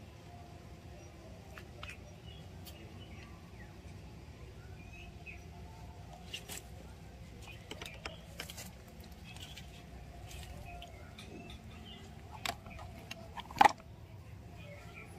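Outdoor ambience: faint, scattered bird chirps over a low steady rumble, broken by a few sharp clicks, the loudest a little before the end.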